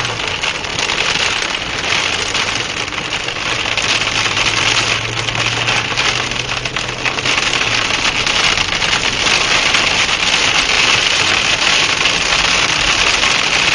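Steady, loud rush of wind-driven rain on a vehicle during a tornado, with a low engine hum underneath that fades out about eight seconds in.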